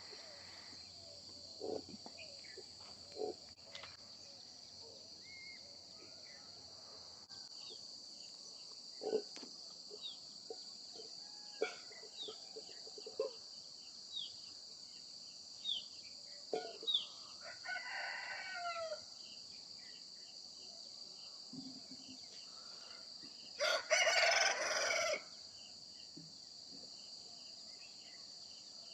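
Native country chickens clucking at intervals over a steady chorus of crickets; about 24 seconds in a rooster crows once, the loudest sound.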